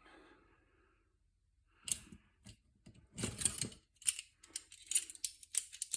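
Hand tools and metal parts clicking and clinking while work is done on a small lawn-edger engine. A few separate clicks come first, then a short louder spell of handling and scraping, then a quick irregular run of sharp clicks.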